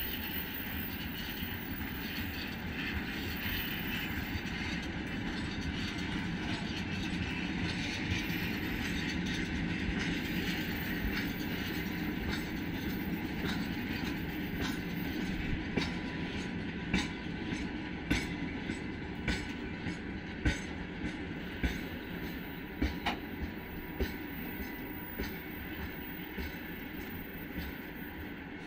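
Freight train of open gondola wagons rolling past: a steady rumble of steel wheels on rail, with sharp wheel clicks over rail joints that become distinct and frequent from about halfway through.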